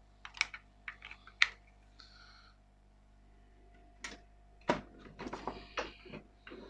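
Scattered clicks, knocks and rattles of a charger and power cables being handled and sorted, in two bursts with a quiet pause between, over a faint steady hum.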